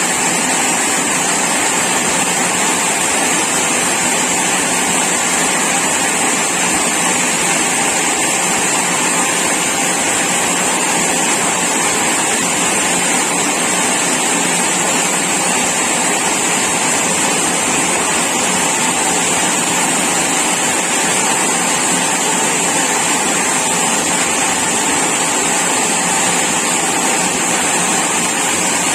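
Sawmill saw running steadily, with no change in pitch or level.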